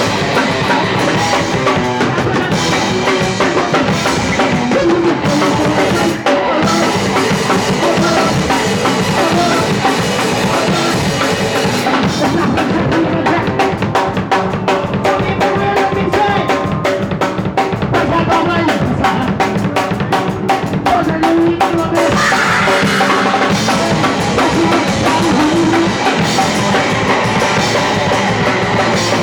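Punk rock band playing live and loud, with a pounding drum kit, bass drum and snare driving a dense wall of amplified instruments.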